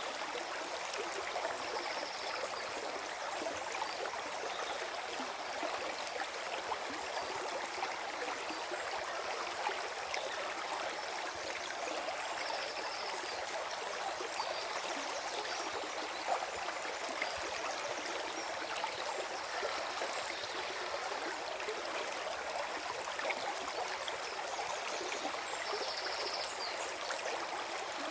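Forest stream gurgling and flowing steadily over its bed. Three brief high notes come through, near the start, in the middle and near the end.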